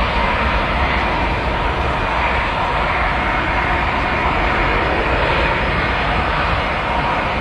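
Boeing 737-800 airliner's CFM56-7B jet engines running: a steady, loud noise with a faint whine in it.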